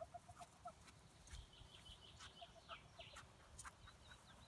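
Near silence outdoors: a faint row of short notes in the first second, then scattered faint high chirps typical of distant birds, with low wind rumble and a few soft ticks.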